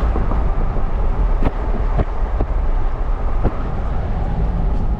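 Moving car's steady road and engine rumble, with a few sharp clicks or knocks about a second and a half in, at two seconds and at three and a half seconds.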